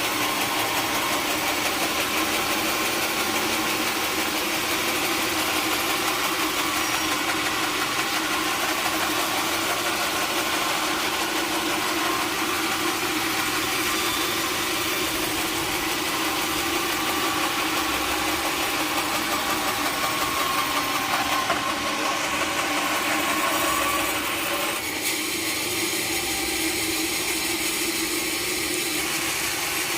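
Sawmill machinery running steadily with a continuous motor hum, its sound changing about 25 seconds in.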